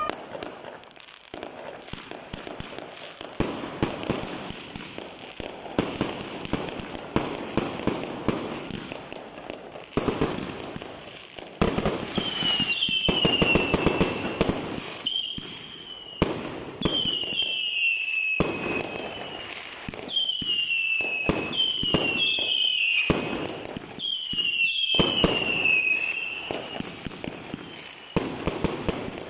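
Fireworks going off: a dense crackle of pops and bangs, and from about halfway through a run of whistling shells, each a falling whistle, one after another.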